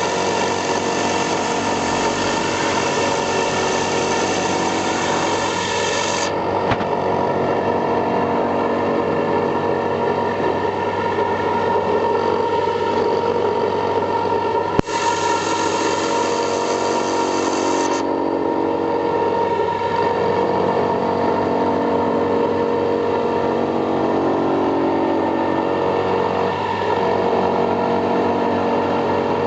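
4-axis CNC milling machine running steadily, its spindle and cutter machining spherical pockets into a roller, with several fixed whining tones. A single sharp click about halfway through.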